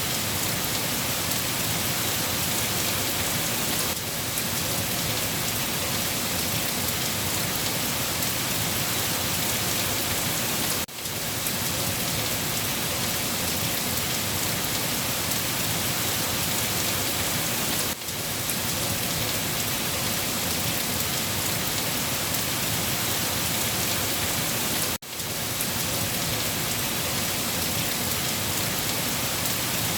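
Steady, dense rain falling on surfaces, a continuous even hiss. It drops out for a split second three times, about 11, 18 and 25 seconds in.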